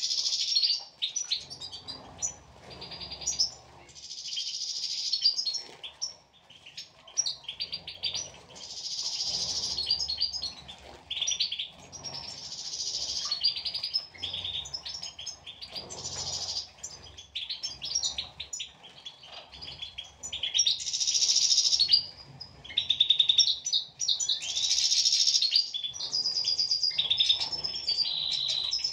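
European goldfinches singing: a continuous, fast twittering song of rapid chirps and trills, with patches of faint low rustling underneath.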